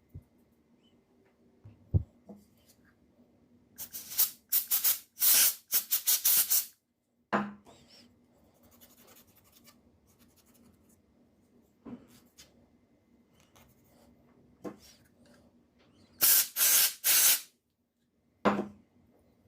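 Hands working on a laptop's plastic casing and parts: a few knocks, then two runs of short, sharp scraping and rubbing strokes, about four to six in quick succession each, with single scrapes between them.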